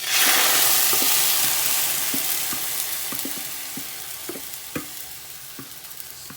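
Raw chicken pieces going into a hot pan: a loud sizzle starts all at once and slowly dies down as the pan cools under the meat. Scattered light clicks sound through it.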